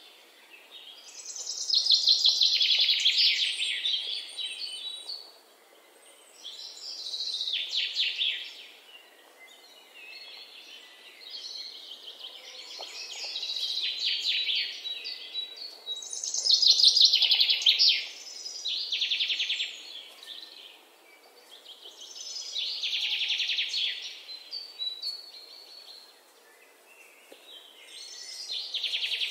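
Bird song: high, rapid chirping in bursts of a few seconds each, recurring about every five or six seconds.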